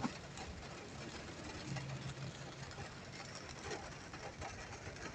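Car engine idling, heard from inside the cabin as a steady low hum, with an even hiss over it.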